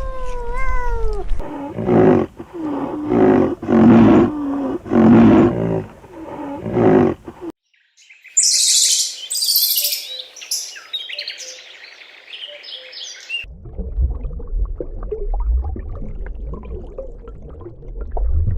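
Animal calls edited back to back: a cat's meow trailing off at the start, then about five loud repeated calls, then after a sudden cut a stretch of high bird chirping, and after another cut a quieter noisy stretch with scattered clicks.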